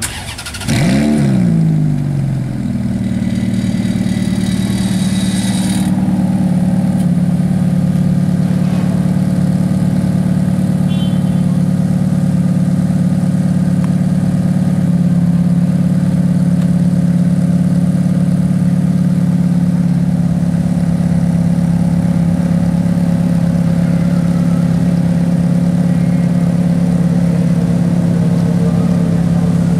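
Ferrari F430's V8 engine cranked and catching about a second in. It flares up in revs, then settles to a steady idle. For a few seconds after it settles, the exhaust makes a weird fast rattling of unknown cause, then it idles on without it.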